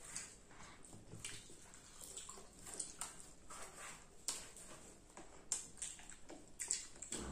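Popcorn being chewed with the mouth near the microphone: irregular soft crunches and wet mouth clicks, with a few sharper crackles, as several people eat without talking.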